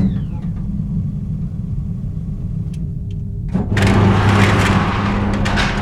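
Designed sci-fi spaceship engine sound: a steady low hum with a short falling electronic tone at the start. About three and a half seconds in, a loud rushing roar breaks in over the hum.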